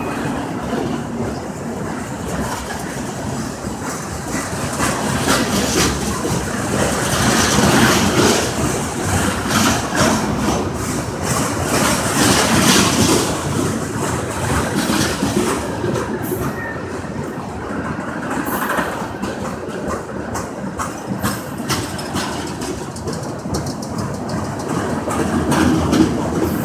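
Freight cars rolling past at close range: a steady rumble of steel wheels on rail, broken by many sharp clicks and knocks of clickety-clack as the wheels pass over the track, swelling a little louder twice in the middle.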